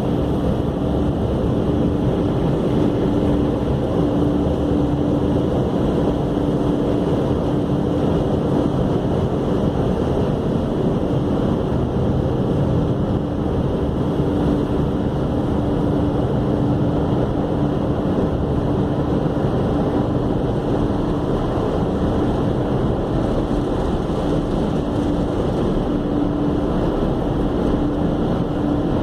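Car wash equipment running steadily: a dense rushing noise with a constant hum that never lets up.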